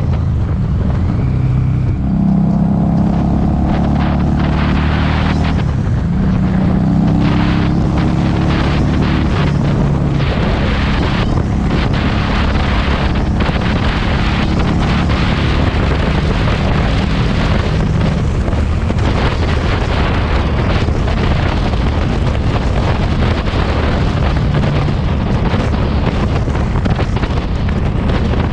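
Harley-Davidson Street 500 V-twin with an aftermarket TAB Performance exhaust, running under way on the road. The engine note holds steady for a few seconds at a time and shifts pitch several times, partly buried under heavy wind rushing on the helmet-mounted microphone.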